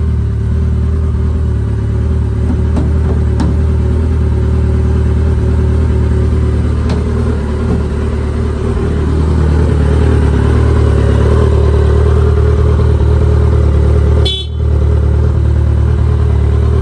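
Motorcycle engine idling steadily, getting a little louder about halfway through.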